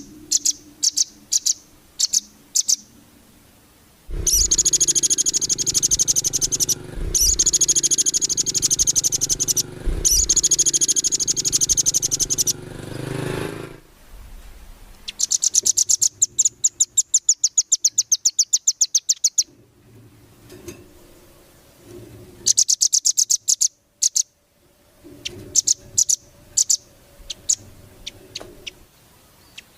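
Songbird recording used as 'masteran', training audio for caged songbirds. It opens with sharp separate chirps, then runs into long stretches of continuous high song, and then a fast trill of evenly repeated notes lasting about four seconds. Scattered chirps and short bursts of song follow.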